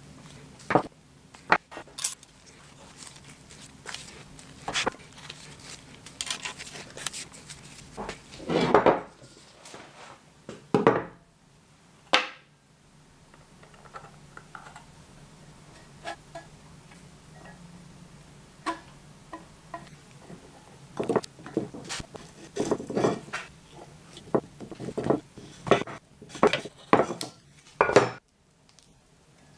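Small metal parts clinking and knocking as they are handled and set down, with a few short scrapes, irregularly spaced and with a quieter stretch in the middle.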